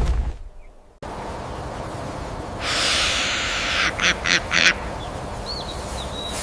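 A whoosh, then an animal recording over steady outdoor background noise: one long harsh, raspy call followed by three short rasps in quick succession, with a couple of faint high chirps near the end.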